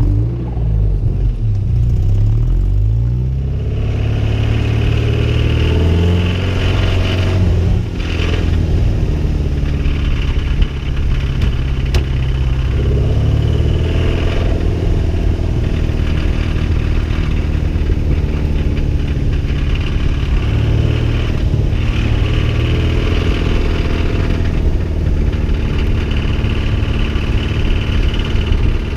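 Toyota MR2 Spyder's 1ZZ-FE four-cylinder engine driven hard, revving up and dropping back again and again, with brief lifts off the throttle between pulls.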